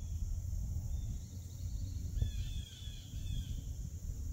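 Bird calling in the woods: a short run of quick chirping notes that fall in pitch, about two seconds in, with a single thump just before them. Underneath is a steady low rumble on the microphone and a steady high hiss.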